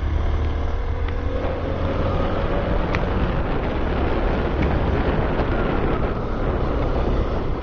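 Hero XPulse 200 4V single-cylinder engine running under way, its note rising slowly over the first few seconds as the bike picks up speed, with wind and tyre noise on the wet road.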